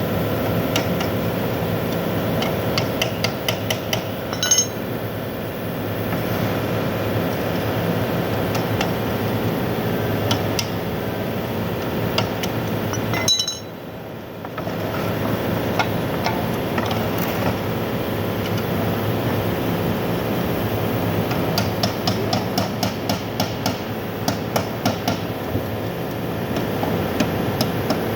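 Repeated light metallic taps and clinks, like hand tools on metal, over a steady mechanical hum. There is a ringing clink about four seconds in, and the hum briefly drops away about halfway through.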